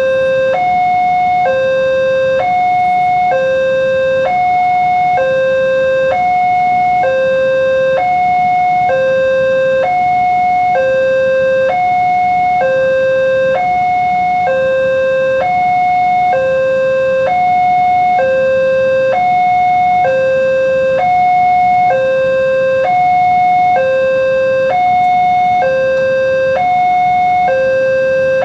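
Indonesian railroad level-crossing alarm sounding its two-tone electronic warning, a lower and a higher tone alternating evenly, about one full cycle every two seconds, without a break: the signal that a train is approaching the crossing.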